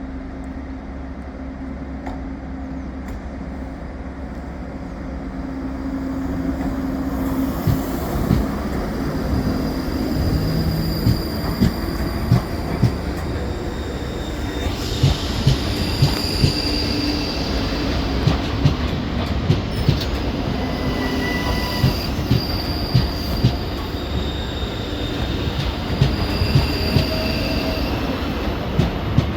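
An LNER Class 801 electric train pulling slowly through the station. It hums low at first, then from about seven seconds its wheels click over rail joints and points, and about halfway through a high-pitched wheel squeal joins in.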